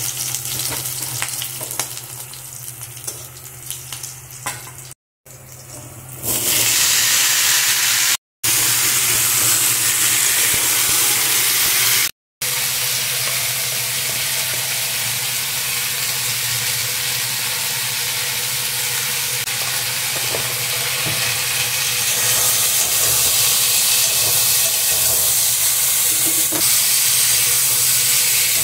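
Green chillies crackling and spitting in hot oil in a kadai. After a few brief dropouts, a louder steady sizzle follows as chunks of gati kochu (taro) fry and are stirred with a spatula.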